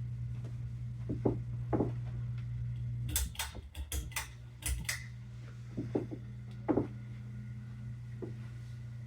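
Ceiling fan motor humming steadily. A few light knocks come through, and a quick run of sharp clicks and rattles starts about three seconds in and lasts about two seconds.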